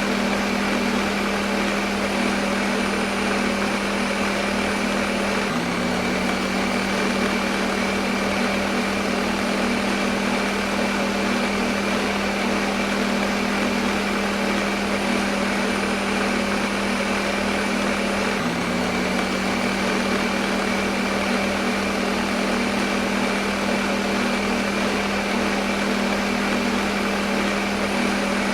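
Electric kitchen blender motor running continuously at constant speed: a steady hum over an even whirring noise, with a small sudden shift in pitch twice.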